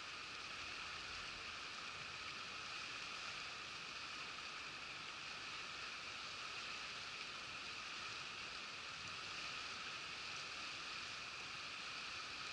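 Steady murmur of a shallow mountain river flowing over stones, an even rushing with no breaks.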